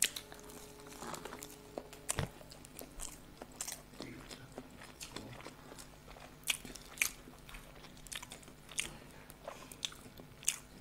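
Chewing and mouth sounds of people eating masala boiled eggs: soft, irregular smacks and clicks of biting and chewing.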